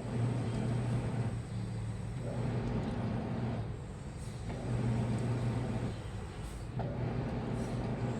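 Washing machine running: a low motor hum that comes on for one to two seconds at a time with short breaks between, over a steady churning noise.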